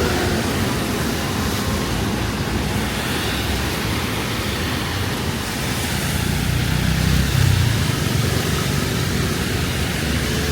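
Steady hiss of rain over city traffic. A motor vehicle's engine swells and fades as it passes, about six to eight seconds in.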